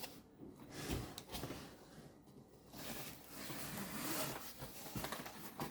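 Rustling and light knocks of packaging and parts being handled while unboxing a sewing machine, with a few sharp clicks among the rustle.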